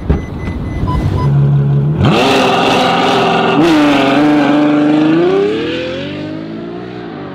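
Ferrari FF's naturally aspirated V12 launching hard from a standstill. After a low idle and two short beeps, the engine note jumps up about two seconds in and climbs. It dips at an upshift about a second and a half later, then climbs again and fades as the car pulls away.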